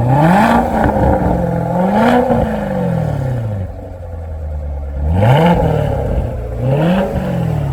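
Chevrolet Corvette C7 Grand Sport's 6.2-litre V8 revved from idle four times: two longer revs in the first half, dropping back to idle about three and a half seconds in, then two quick blips near the end.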